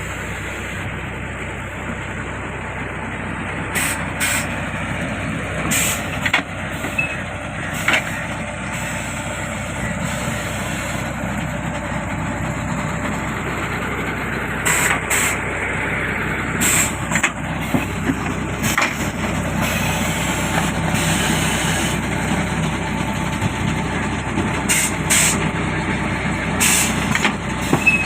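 Brick-making machine running with a steady engine drone, broken by short sharp bursts every few seconds.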